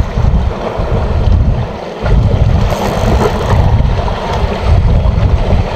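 Wind buffeting an action camera's microphone in gusts, a loud, low, uneven rumble, over the wash of sea waves.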